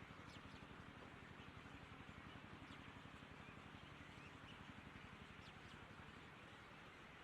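Near silence: a faint steady background hum and hiss, with a few brief, faint, high chirps from birds.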